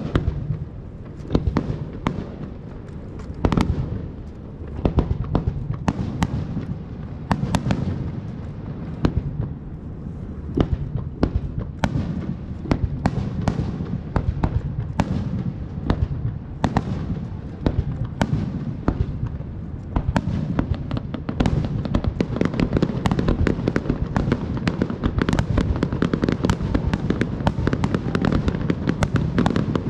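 Aerial fireworks bursting one after another over a continuous low rumble. The bangs come thick and fast from about two-thirds of the way through, in a near-continuous rapid crackle.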